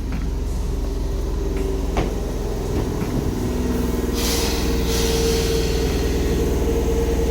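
Train running, heard from on board: a steady low rumble with a steady hum that slowly grows louder. A sharp click comes about two seconds in and a brief hiss about four seconds in.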